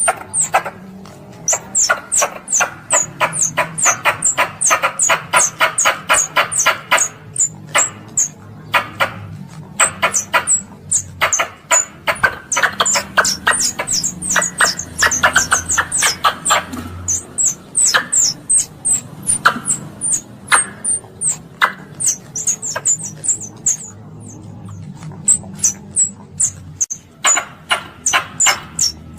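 Squirrel calls: a rapid, high-pitched chattering of short sharp chips, several a second, in long runs broken by brief pauses. These are calls used to attract other squirrels.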